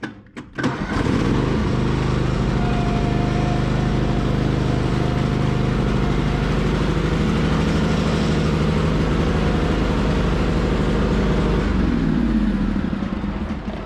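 Cub Cadet riding lawn mower's engine starts about a second in and runs steadily. Near the end it is shut off and winds down.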